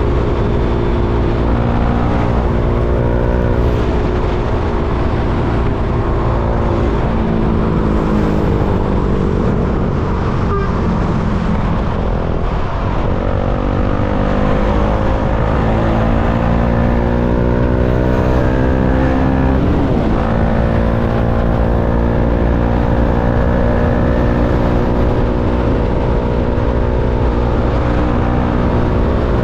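KTM Duke 390's single-cylinder engine running while riding in traffic, its pitch rising and falling with the throttle: a long climb starting about 13 s in that drops off sharply about 20 s in.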